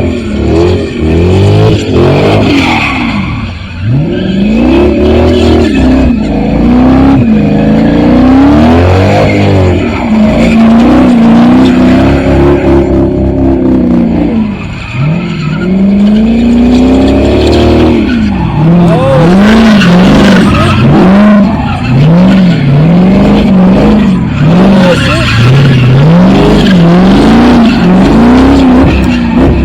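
A car doing donuts at a street takeover: its engine revs up and down over and over while the tyres squeal and skid on the pavement. In the second half the revs rise and fall in quick regular pulses, about one a second.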